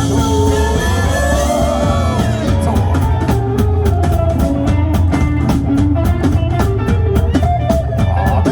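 A band playing an upbeat swing-rock song, with guitar and drum kit; about two seconds in the drums set into a steady, driving beat under the held melody notes.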